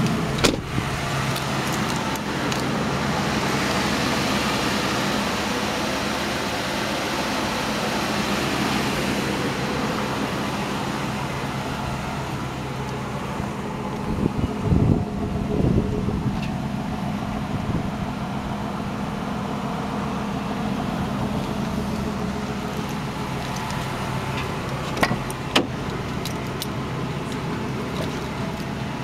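Steady low hum of an idling SUV engine, with a few short knocks.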